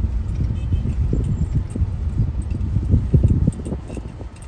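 Car driving slowly over a rough road under construction, heard from inside the cabin: a low rumble with irregular bumps, light clicks and rattles.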